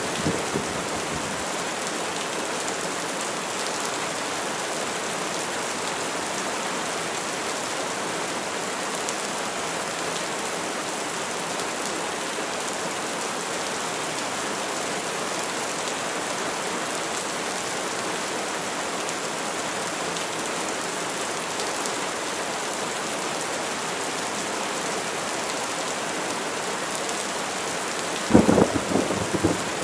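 Steady rain falling in a thunderstorm. The tail of a thunder rumble fades out at the start, and a loud thunderclap with rumbling comes near the end.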